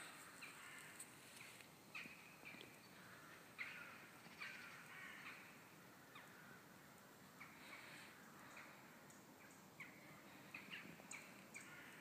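Faint calls of several birds: a scattering of short calls and sharp chips, thickest in the first half and again near the end.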